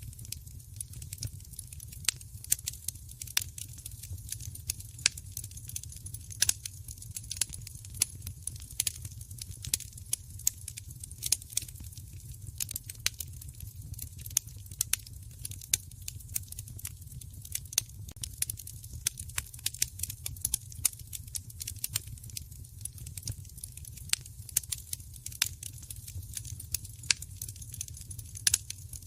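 Wood fire in a fireplace crackling, with many irregular sharp pops and snaps over a steady low rumble of the burning.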